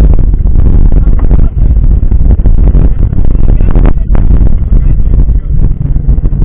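Wind buffeting a bike-mounted camera's microphone during a mountain-bike ride, a heavy, loud rumble with frequent rattling knocks from the bike riding over rough ground.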